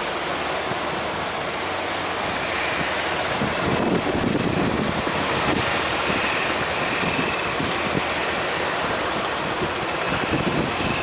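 Heavy sea surf breaking and washing, with wind buffeting the microphone; the surf swells louder about three and a half seconds in.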